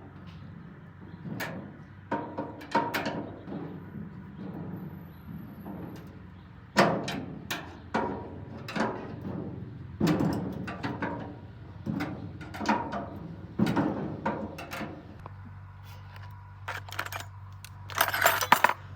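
Irregular knocks and clanks, some ringing briefly, over a low steady hum, with a dense rattling burst near the end: hand work on metal parts during a repair.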